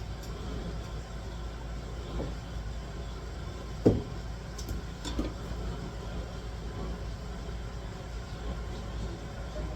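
A few knocks on a cutting board over a steady low hum, the loudest knock about four seconds in.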